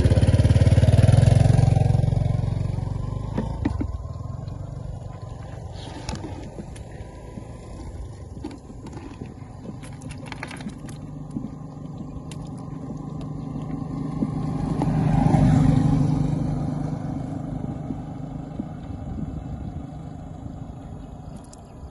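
A small engine running, loud at the start, fading, then swelling again to a second peak about fifteen seconds in.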